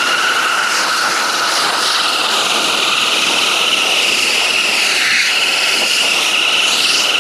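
Filter blaster spinning a combine air filter with a steady, high whine that wavers slightly in pitch, over a loud rush of air as air is blown through the filter.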